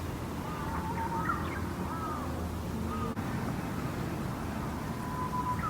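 Birds calling several times in short arched chirps over a steady low background rumble.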